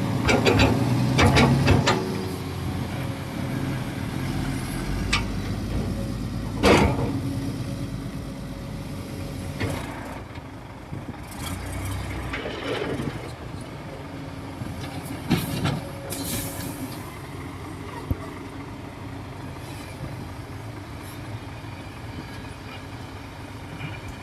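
Bulldozer's diesel engine running steadily under heavy work, with a loud surge in the first two seconds and sharp metallic knocks about seven and fifteen seconds in.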